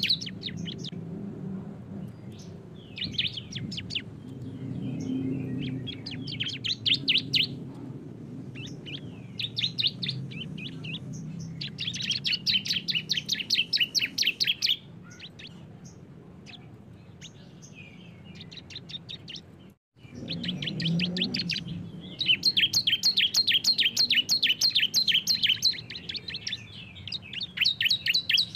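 Two bar-winged prinias (ciblek) singing their rapid chattering 'bren' song: runs of fast repeated high notes, the longest about two and five seconds, over a faint low hum. The sound cuts out abruptly for a moment about twenty seconds in.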